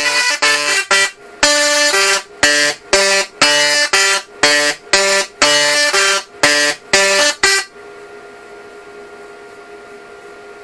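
Solid-state Tesla coil playing a tune through its spark discharge: a quick run of buzzy pitched notes. Near the end the tune stops and a single quieter, steady tone is held.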